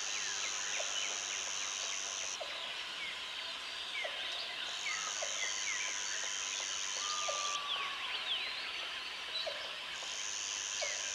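Jungle ambience: a high, steady insect trill that comes in bouts of about three seconds with short breaks, over many short bird chirps and whistles. A low call repeats every second or two, and one longer whistled note sounds about two thirds of the way through.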